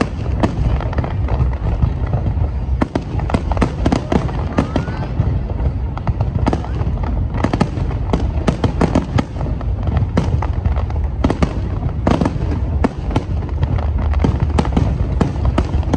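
Aerial fireworks display: a dense, continuous barrage of sharp bangs and crackling bursts over a steady low rumble.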